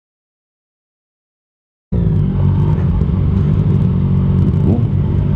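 Complete silence for about the first two seconds, then a Yamaha FZ-09's inline-three engine running steadily at riding speed, with road noise.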